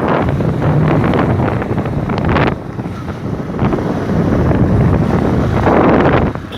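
Wind buffeting the microphone on a bike moving at about 65 km/h, over a low rumble. The gusts swell and ease, dropping back about two and a half seconds in and again near the end.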